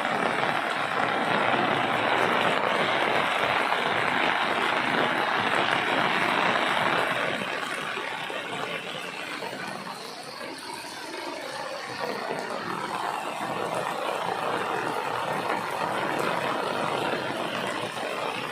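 Heavy rain falling as a steady hiss, loudest for the first several seconds and easing a little after.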